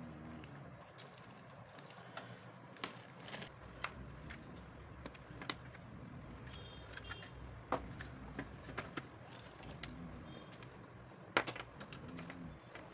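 Faint, scattered clicks and taps of a flood light and its packaging being handled during unboxing.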